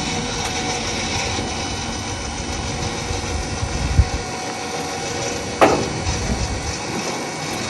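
Electric winch of a Triple D motorcycle lift running steadily as the carrier is lowered, with a thump about four seconds in and a sharp clack about a second and a half later.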